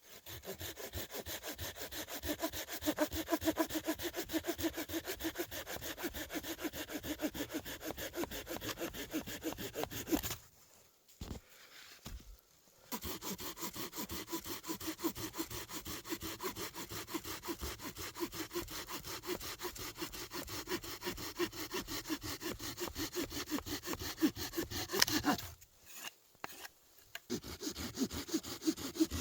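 Hand saw cutting through wood in fast, steady strokes. It stops twice for a couple of seconds before carrying on.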